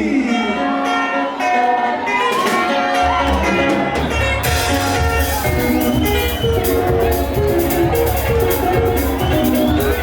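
Live band music starting up: a picked melodic lead line plays alone at first, bass comes in about three seconds in, and drums join soon after to set a steady dance beat.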